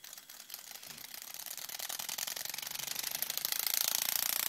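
Toy helicopter's rotor, driven by a small motor, striking a piece of paper on every pass, making a rapid clicking buzz like a helicopter. It grows louder over the first three seconds, then holds steady.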